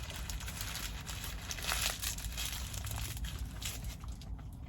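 Paper food wrapper crinkling and rustling in irregular handfuls, loudest a couple of seconds in, over a steady low hum.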